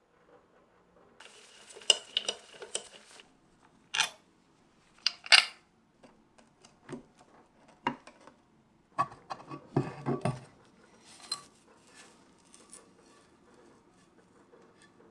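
Small metal parts and tools clinking and knocking as they are handled, with a rustle of about two seconds near the start, then separate knocks that come thickest around the middle of the stretch.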